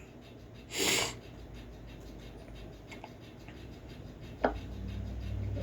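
Faint scratching and rubbing noises from a played-back recording, with a short breathy hiss about a second in and a click near the end, after which a low hum sets in.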